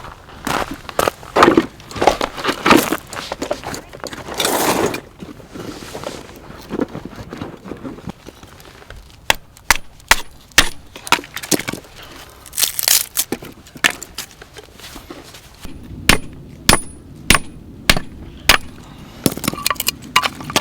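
Firewood being broken up for a campfire: cracking and crunching snaps in the first few seconds, then a string of sharp knocks about every half second to second, like wood being chopped or split.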